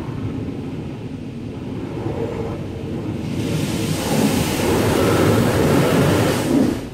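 An automatic car wash spraying water hard against the car, heard from inside the cabin. The hiss builds, turns loud from about three seconds in, and cuts off sharply near the end.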